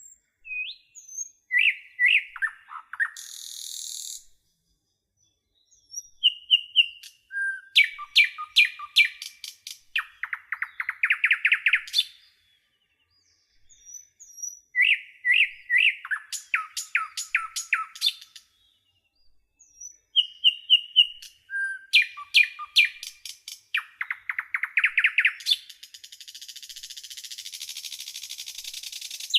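Bird song in repeated phrases: a few short whistled notes, a rapid run of clicks, then a buzzy trill, the same phrase coming back about every six to seven seconds. A steady hiss joins for the last few seconds.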